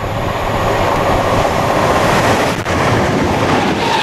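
Class 319 electric multiple unit running through the platform at speed: a loud, steady rush of wheel, rail and air noise right at the train's side, with a brief dip about two and a half seconds in.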